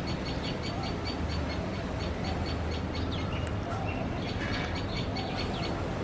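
Tailorbird calling at its nest: a rapid run of short, high notes, about five a second, with a break of about a second just past the middle. A steady low rumble runs underneath.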